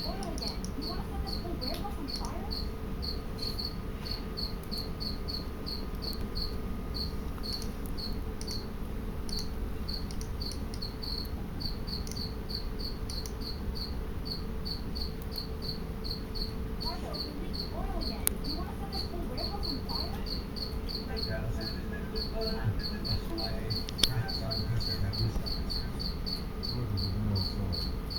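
A cricket chirping steadily, about three short high chirps a second, over a low room background, with a couple of faint sharp clicks.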